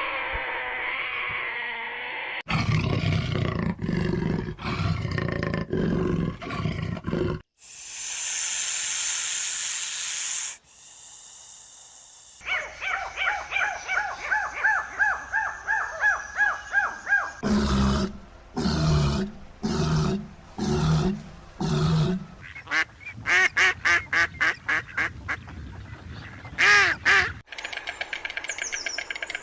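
A series of different animal calls, each lasting a few seconds and cut off abruptly for the next. They include low rhythmic grunts, a burst of hissing noise, runs of repeated high calls and a rapid trill.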